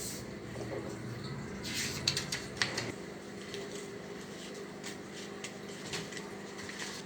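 A sheet of A4 paper being folded and creased by hand, with a short run of crisp paper crackles about two seconds in over faint room hum.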